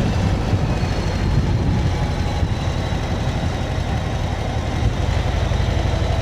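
Motorcycle engine running steadily at cruising speed, a low rumble under a haze of wind and road noise.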